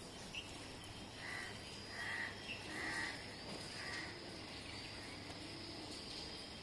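A bird calling four times in a row, short calls under a second apart, over a steady high insect-like whine and outdoor background noise.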